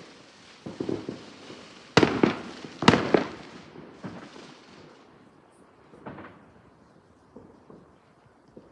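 Fireworks going off: two loud bangs about a second apart near the middle, with smaller pops and crackles before and after, over a hiss that fades out about halfway through.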